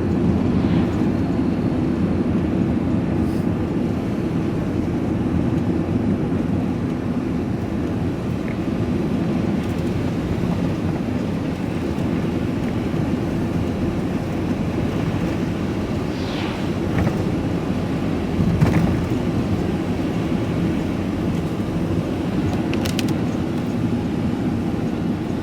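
Steady engine and road noise of a vehicle being driven, heard from inside the cab, with a single sharp knock about 18 seconds in.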